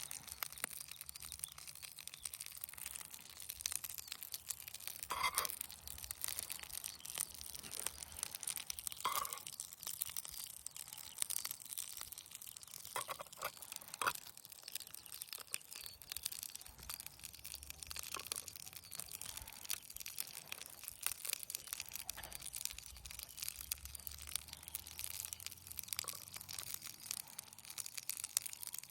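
Campfire cooking sounds: a steady crackling hiss with many fine pops, and a few louder short scrapes or knocks about five seconds in, near nine seconds, and twice around thirteen to fourteen seconds.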